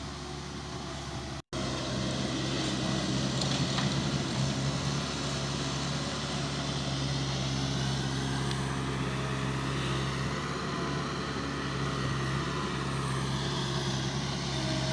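Mini skid steer's engine running steadily, with a brief total dropout about a second and a half in.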